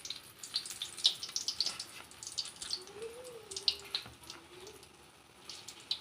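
Hot oil in a kadai sizzling, with irregular sharp crackles and pops, as batter-coated green chillies fry into mirchi bajji.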